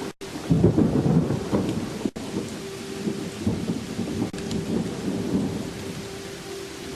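Thunder rumbling over steady rain, the rumble loudest from about half a second in to about two seconds in, then easing.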